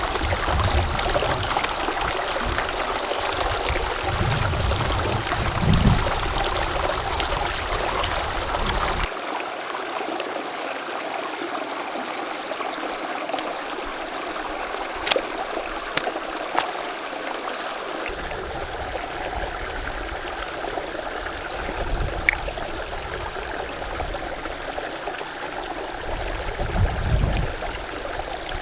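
Mountain stream running steadily over rocks. The character of the water sound changes abruptly twice, and a few small clicks sit over it.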